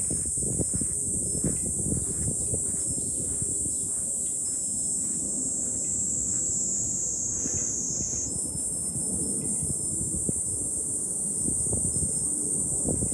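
A chorus of cicadas buzzing steadily and high-pitched, its pitch sliding down and then jumping back up about eight seconds in. Wind gusts on the microphone underneath.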